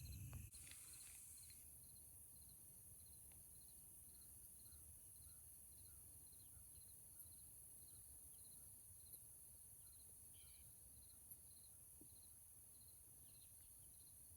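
A cricket chirping faintly and steadily, about two short high chirps a second, over a steady high hiss, with a few faint ticks.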